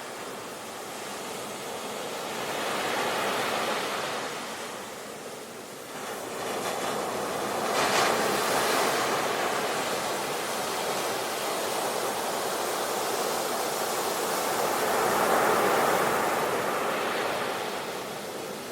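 Sea waves breaking and washing in, in three surges. The sharpest crash comes about eight seconds in, and the last and longest surge falls away near the end.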